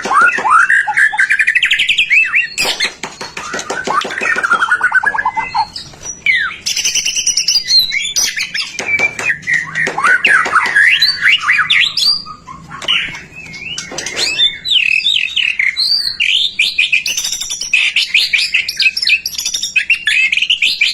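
White-rumped shama (murai batu) singing non-stop, a rapid and varied run of clear whistles, trills and rising and falling sweeps broken by fast, scratchy chattering phrases.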